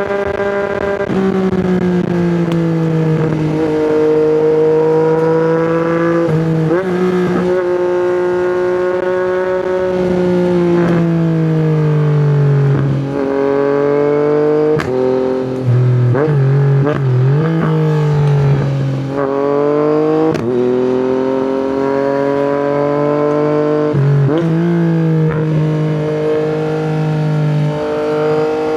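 A Yamaha MT-09's inline three-cylinder engine through an Akrapovic exhaust under hard riding. The pitch climbs through the revs and drops sharply at each gear change. Around the middle there is a cluster of quick dips and blips, as on downshifts, before it pulls up again.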